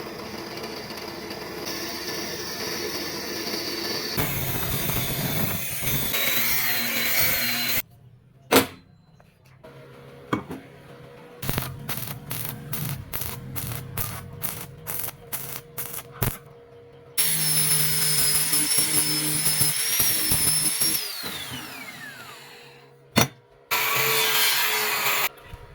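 Workshop power tools running in a string of short cut-together clips, some with a high whine, one winding down near the end. Sharp knocks and a run of quick taps come in the middle.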